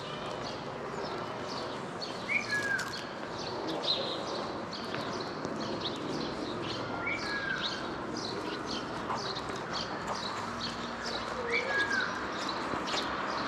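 Small birds chirping busily, with a short falling two-note call heard three times, about five seconds apart, over a steady outdoor background.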